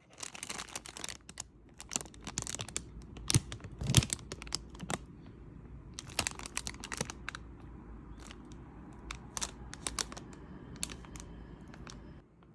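Irregular handling noises: crinkling and rustling with light clicks and taps, and a couple of louder knocks a few seconds in. The sound cuts off suddenly near the end.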